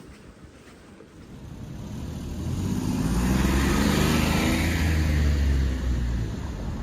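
A motor vehicle passing close by: its engine noise swells over about two seconds, holds loudest for a couple of seconds, then fades toward the end.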